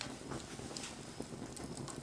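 Wood bonfire burning, crackling with scattered small pops over a steady hiss.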